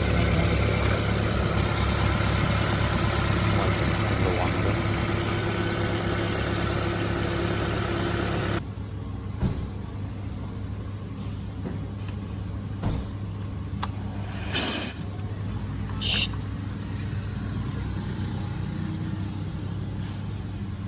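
2010 Toyota Prius's 1.8-litre four-cylinder petrol engine running, the engine the owner reports as knocking. About eight and a half seconds in, the louder, brighter running sound drops away suddenly, leaving a quieter low steady hum with a few sharp clicks and two short hissy bursts.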